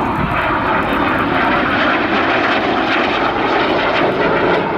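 Loud, steady jet noise from Red Arrows BAE Hawk T1 jets flying low past the crowd.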